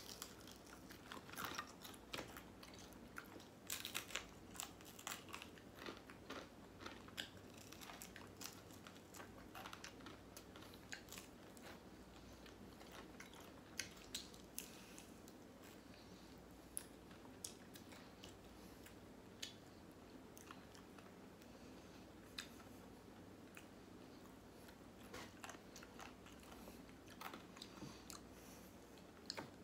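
Close-up chewing and crunching of crispy fried chicken: the crust crackles in short, sharp crunches between bites. The crunches are thick in the first dozen seconds and again near the end, with softer chewing in between.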